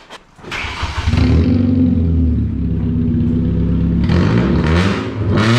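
Loud straight-piped four-cylinder car exhaust. It comes in about half a second in and holds a steady deep note, then rises and wavers in pitch as the engine is revved near the end.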